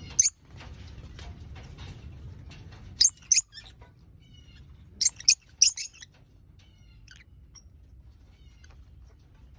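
Lovebirds giving short, shrill chirps in loud clusters: one right at the start, two about three seconds in and three around five to six seconds. Fainter, softer chirps come in between.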